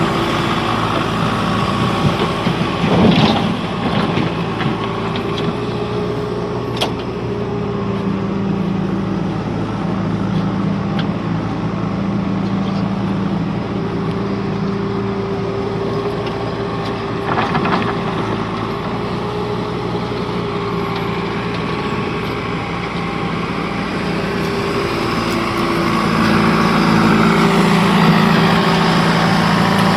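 Heavy diesel machinery engine running steadily, with a couple of brief knocks, growing louder near the end.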